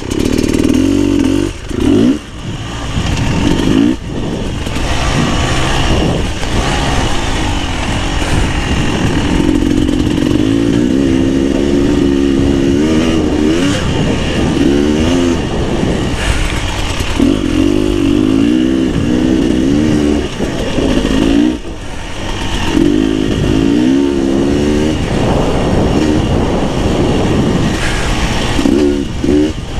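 Beta 300 RR two-stroke enduro engine revving up and down as the dirt bike is ridden over a trail, its pitch rising and falling with the throttle. The throttle is chopped briefly a few times, about two, four and twenty-one seconds in.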